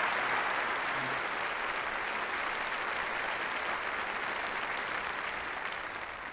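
Church congregation applauding steadily, the clapping slowly dying away near the end.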